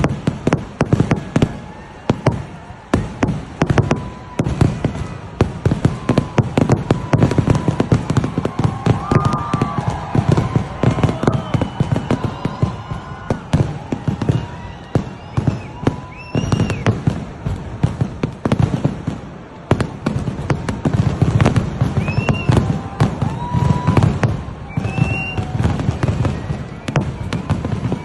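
Fireworks and firecrackers going off in a dense, unbroken barrage, many bangs a second, with a deep rumble beneath the cracks.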